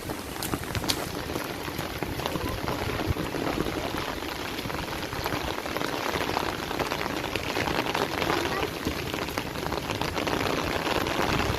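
Steady rain falling on surfaces, with scattered sharp drop clicks, two more distinct ones about a second in.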